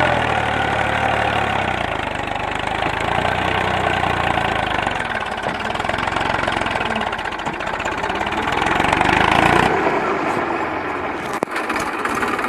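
Tractor engine running steadily. Its sound changes about ten seconds in, with a single sharp click soon after.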